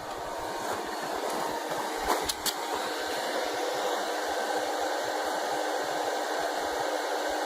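Hair dryer forcing air down a steel pipe into a charcoal-fired bucket furnace: a steady rushing blast of air and fire. A few sharp clicks sound about two seconds in.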